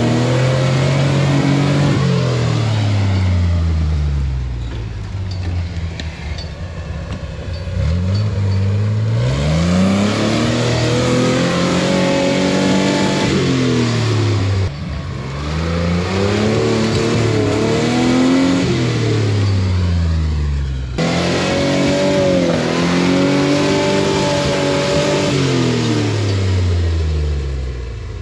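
A 4x4 truck's engine revving hard and easing off over and over, about four long rises and falls, as the rig tries to crawl up a steep rock climb.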